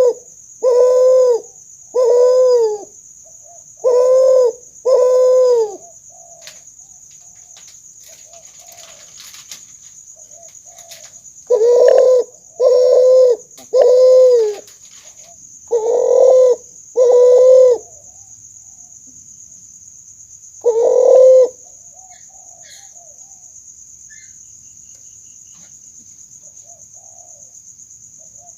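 Kuter, a hybrid of spotted dove (tekukur) and Barbary dove (puter), cooing: about ten loud, short coos, each with a slight rise and fall in pitch, given in three bouts separated by pauses of several seconds.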